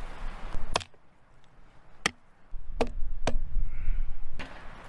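Five sharp chopping blows of a blade, spaced unevenly over a few seconds.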